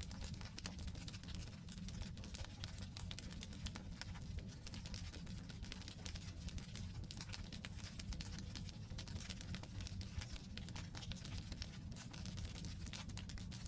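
Firewood campfire burning, with dense, irregular crackles and small pops over a steady low rumble of the fire.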